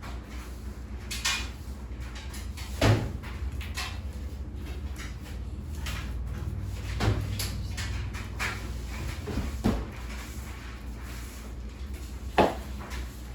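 Scattered household knocks and clunks, about five a few seconds apart with the loudest about three seconds in and near the end, like cupboard doors or drawers and objects being handled, over a steady low hum.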